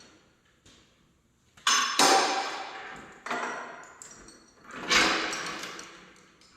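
Heavy metal parts clanking against each other, four sharp ringing clanks, two close together a little under two seconds in, then one more at about three seconds and a last loud one near five seconds, each ringing out.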